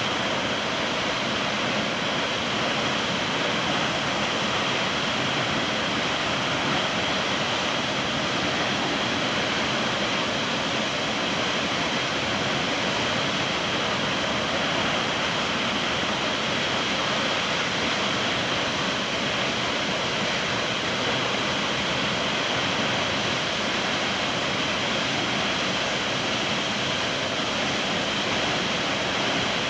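Steady rush of falling or flowing water, an even unbroken noise that holds the same level throughout.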